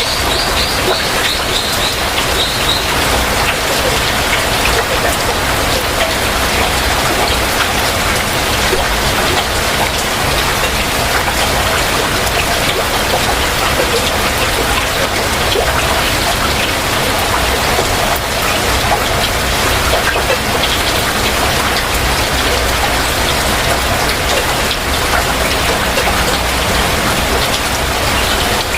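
Heavy rain falling steadily, a dense even hiss of drops. A bird's high trill of quick repeated notes carries on briefly from before and stops a couple of seconds in.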